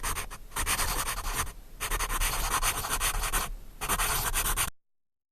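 Loud scratching, rubbing noise in three stretches with short breaks, cutting off abruptly to dead silence a little before the end.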